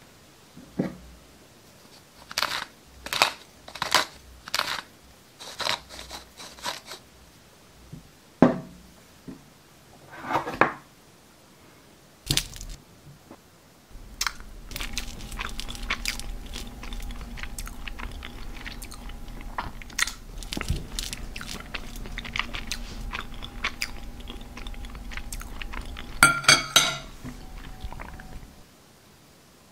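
Close-miked eating sounds: a string of separate crunchy bites and chews, then a longer stretch of continuous crackly chewing with a faint steady hum underneath. A quick cluster of loud crunches comes near the end.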